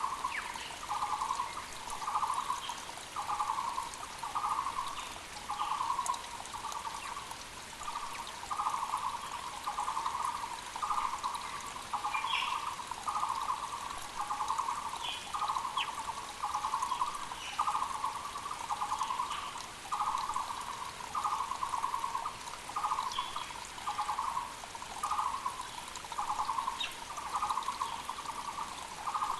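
Taiwan barbet (Muller's barbet) calling, one hollow note repeated evenly a little over once a second without a break. Other small birds chirp now and then over the steady rush of a mountain creek.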